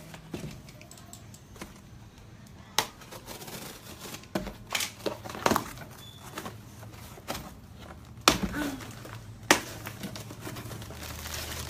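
Cosmetics packaging being handled and opened: crinkling and rustling broken by irregular sharp clicks and snaps, the loudest a little after 8 seconds and at about 9.5 seconds in.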